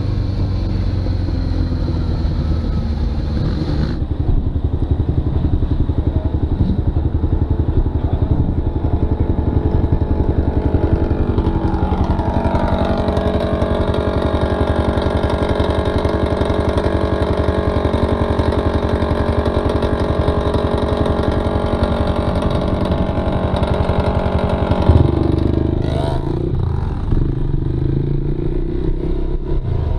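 Motorcycle engine running on the move. About twelve seconds in, the engine note rises and then holds steady, and it drops off again about twenty-five seconds in.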